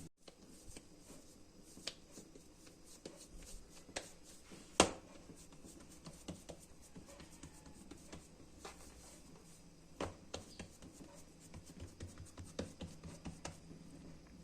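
Scattered light clicks and taps of kitchen handling work, with one sharper knock about five seconds in and a quick run of small ticks near the end.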